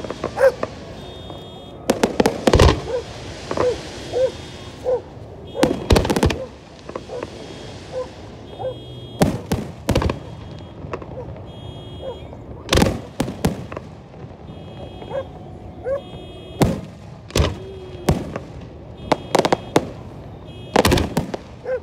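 Aerial fireworks shells bursting: sharp bangs at irregular intervals, several coming in quick clusters. A hissing crackle follows the bursts about two to five seconds in and again around seven seconds.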